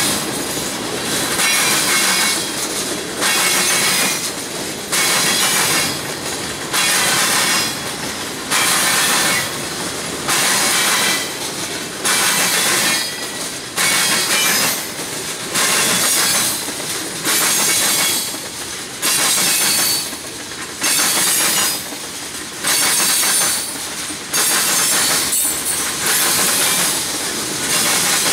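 Freight cars rolling past, their steel wheels banging and clattering over a railroad diamond crossing. The wheel noise swells and drops in a regular beat about every two seconds as each car's trucks cross, with a hissing squeal in the loud parts.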